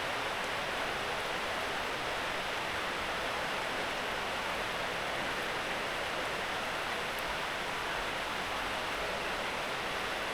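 Steady rainfall, an even hiss with no break.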